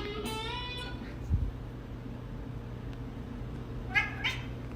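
A domestic cat meowing: one meow just after the start, then two short meows close together near the end.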